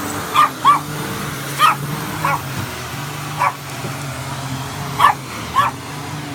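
Petit Brabançon dog barking sharply at a vacuum cleaner, about seven short barks, over the vacuum's steady motor drone.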